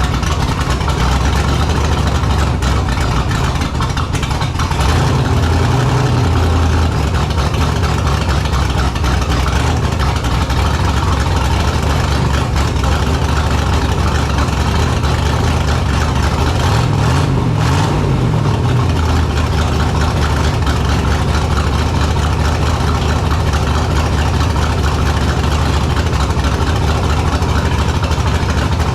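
Engine of a 1929 rat rod running on its freshly cleaned twin Stromberg carburettors, a steady idle whose note shifts a couple of times, as the car is run to check that the rear carb no longer floods.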